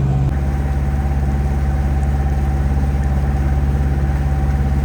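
Boat motor running steadily under way, a low even hum with a faint steady whine above it.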